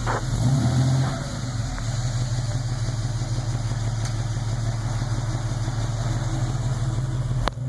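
The freshly rebuilt 250 cubic-inch inline-six of a 1974 Chevrolet Opala. It comes off a short throttle blip in the first second, then idles steadily. There is one sharp click near the end.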